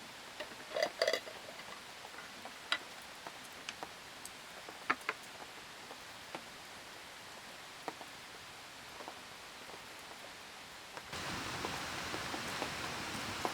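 Rain at a campsite: scattered drips and taps over a soft steady hiss, with a brief clatter of ringing clinks about a second in. About 11 seconds in, the hiss suddenly becomes louder and denser, like heavier rain.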